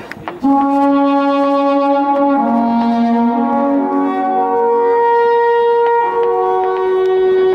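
Music of brass instruments, such as horns, holding long sustained chords that shift to new notes twice.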